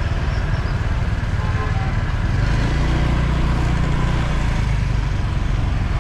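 Motorbike engines in city street traffic, with one engine running close by and growing stronger for a couple of seconds in the middle.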